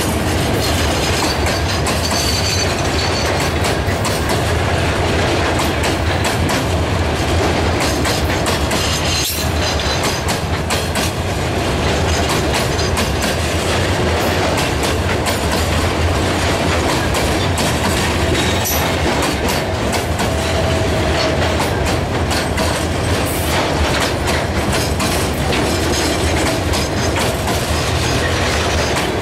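Freight train cars rolling past at close range: a steady, loud rumble of steel wheels on rail with a dense clickety-clack of wheels over the rail joints.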